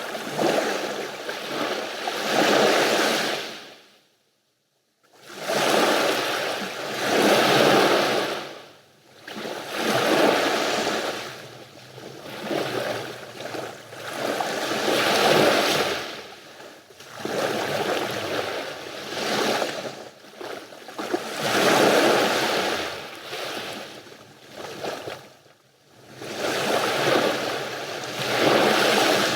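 Mediterranean sea waves washing onto the shore, swelling and ebbing every two to three seconds, with a brief drop to near silence about four seconds in.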